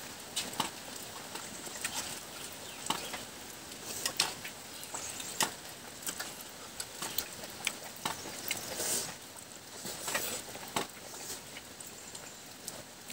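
Close-up eating sounds: a man chewing a mouthful of rice and curry, with irregular sharp smacking clicks of lips and mouth, one or two a second.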